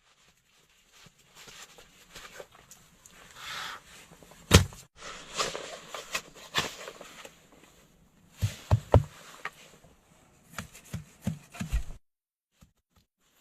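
Irregular knocks, clicks and rustles of things being handled, with one sharp loud thump about four and a half seconds in and a cluster of dull knocks later; they cut off shortly before the end.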